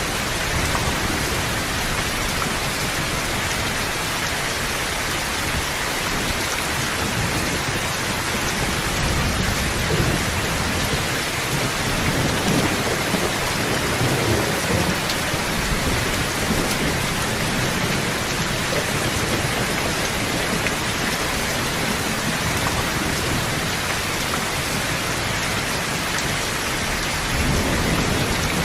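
Steady rain pouring down, with low rolling thunder rumbling in the background, swelling through the middle and again near the end.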